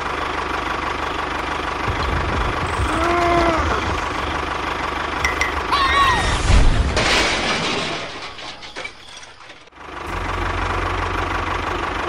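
An engine running with a steady low knocking pulse. Two short rising-and-falling tones sound over it a few seconds apart. The engine sound fades and drops out briefly near the ten-second mark, then comes back.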